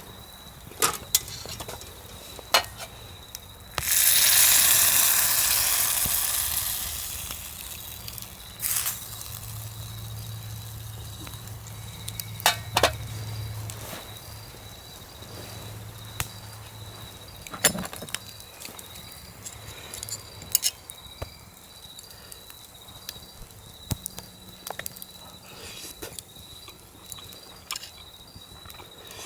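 Food dropped into a hot pan, sizzling loudly as it goes in and dying down over a few seconds, with scattered clicks and clinks of utensils and cookware.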